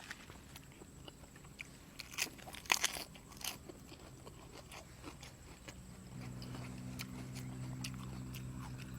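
Close-up chewing of soy-sauce-pickled jellyfish: crisp crunches and bites, the loudest cluster between about two and three and a half seconds in. A low steady hum comes in about six seconds in.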